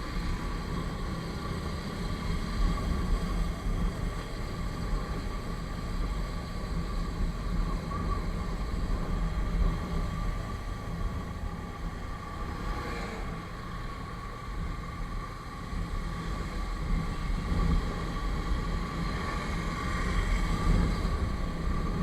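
Motorcycle riding along the road: steady engine and road noise throughout, with a strong low rumble.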